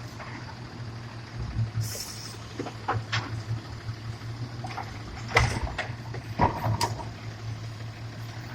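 Garbage truck's engine running steadily at a low hum, with a short hiss about two seconds in and several sharp knocks and clanks over the next few seconds.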